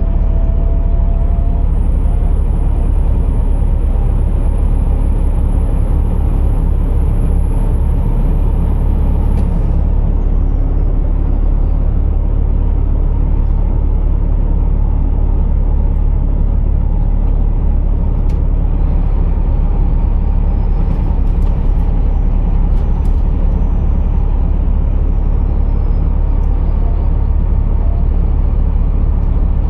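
Scania R480 truck's 13-litre six-cylinder diesel running with a steady low drone. A faint high whine rises and falls twice over it.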